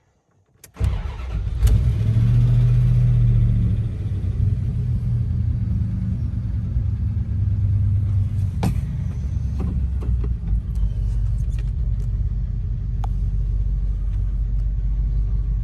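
1989 Dodge Ramcharger's V8 engine starting up about a second in, running a little higher for a few seconds, then settling into a steady idle. A few sharp clicks are heard over it.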